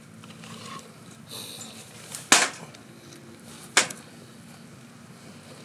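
Two sharp wooden cracks about a second and a half apart, the first louder, over a low campfire background.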